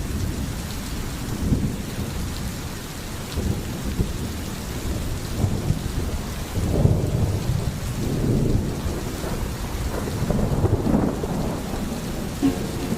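Steady rain falling, with low rumbles of thunder swelling and fading several times. Music begins near the end.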